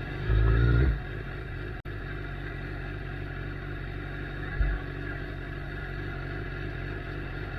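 Suzuki GSX-R1000 sport bike's inline-four engine running steadily while riding at a constant speed, with a short, louder low rumble just under a second in and a single thump about four and a half seconds in.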